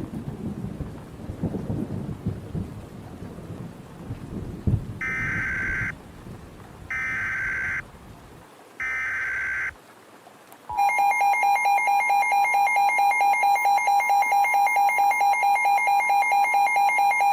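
Thunderstorm sound of rain and rumbling thunder. About five seconds in, three one-second bursts of EAS header data tones begin, about a second apart. About eleven seconds in, the steady two-tone EAS attention signal starts, marking the start of a new tornado warning broadcast.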